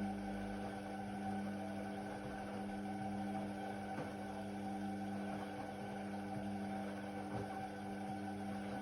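Indesit WIDL 106 washer-dryer giving a steady electrical hum with a buzzing ring of overtones, with no change in pitch.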